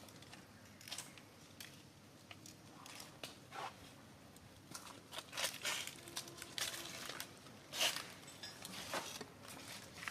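Irregular rustling and crackling, a scatter of short crisp crackles, a few louder ones in the second half.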